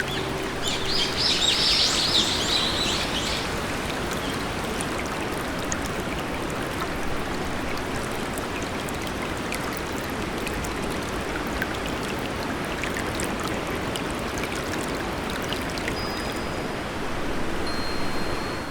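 Steady hiss of rain or running water with birds chirping over it: a burst of bright chirping about one to three seconds in and a thin high whistle twice near the end. A low hum stops about a second in.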